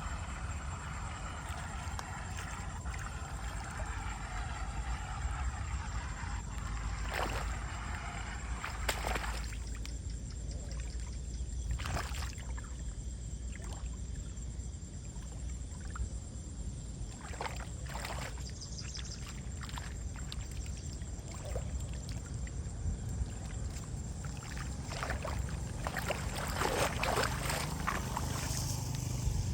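Water sloshing and trickling over a steady low rumble, with scattered short knocks and scrapes, which come more often near the end.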